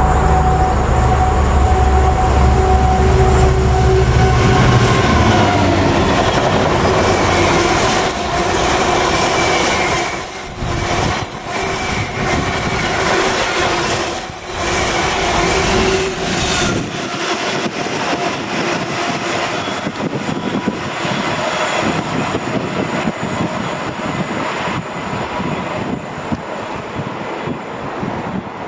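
Class 66 diesel locomotives with EMD two-stroke V12 engines pass at speed, the deep engine note fading after about six seconds, followed by bogie flat wagons rumbling and clattering over the rails with a thin wheel squeal.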